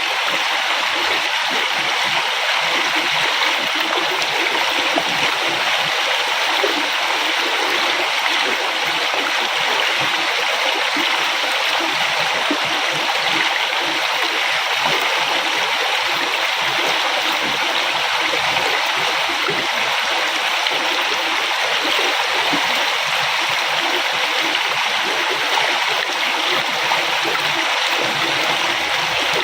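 Flowing river water: a steady, even rush with a restless bubbling texture underneath, unchanging throughout.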